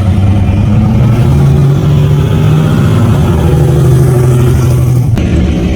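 A car engine running loud and revving, its pitch stepping up about a second and a half in and holding, with an abrupt change near the end.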